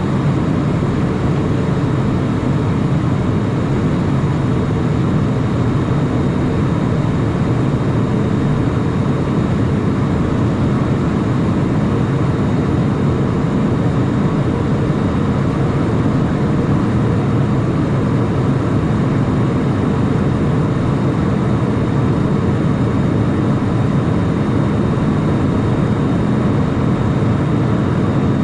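Steady cabin noise inside a Cessna Citation Mustang twin-turbofan light jet in flight: an even rush of airflow and engine noise, strongest in the low range, with a faint steady high whine.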